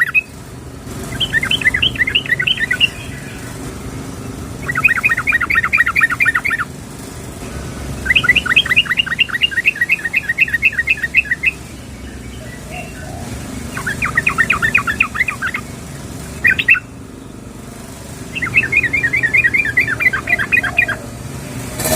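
Yellow-vented bulbul giving six bursts of fast, repeated chattering notes, a long one about eight seconds in and a short one about sixteen seconds in. This is the female's call to a male. A steady low rumble sits underneath.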